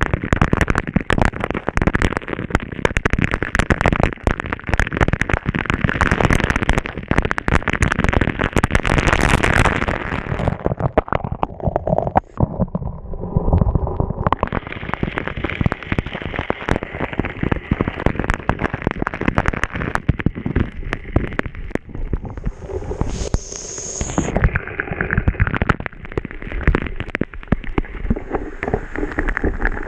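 Waterfall spray and falling water spattering on a camera microphone: a dense, rough, crackling noise that thins out briefly about twelve seconds in.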